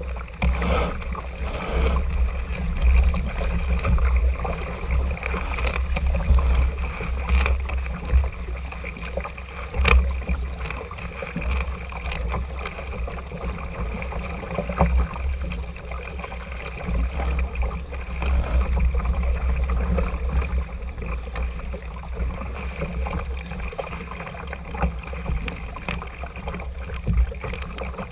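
Water rushing and slapping along the hull of an RS Tera sailing dinghy under way, with wind rumbling on the microphone and a few scattered knocks.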